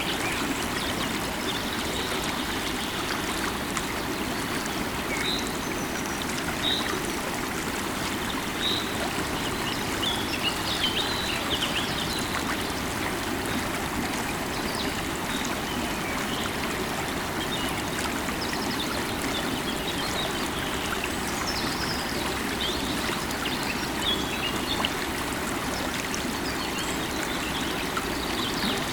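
A river or stream of running water flowing steadily, with birds chirping now and then in short high calls.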